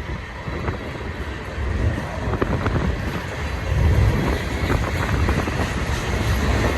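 BNSF freight train's covered hopper cars rolling past with a steady rumble and occasional faint clicks from the wheels, while gusting wind buffets the microphone and swells about four seconds in.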